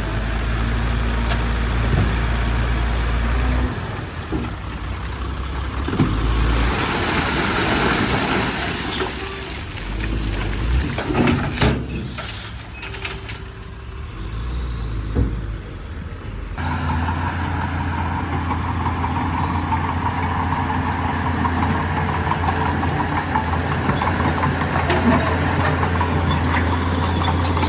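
Heavy diesel engines of a bulldozer and dump truck running at work, with a few sharp clanks around the middle. The sound changes abruptly about two-thirds of the way through to a steadier engine drone.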